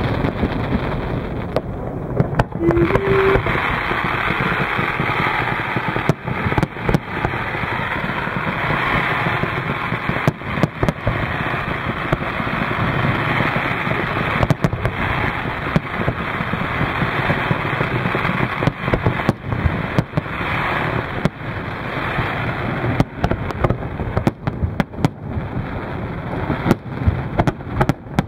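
Fireworks display: a continuous barrage of crackling and bangs, with sharper single bangs scattered all through.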